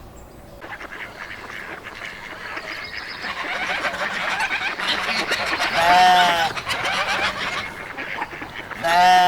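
A growing din of many animal calls, with two loud, short calls that rise and fall in pitch about six and nine seconds in.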